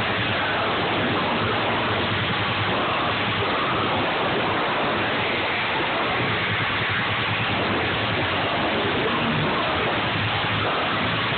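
Loud live music at a venue, overloading a phone's microphone into a dense, steady roar with no clear notes or beat.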